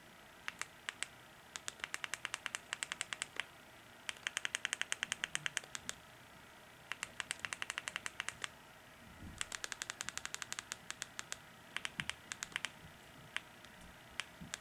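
Rapid, sharp clicking in short bursts of about ten clicks a second, with brief pauses between the bursts.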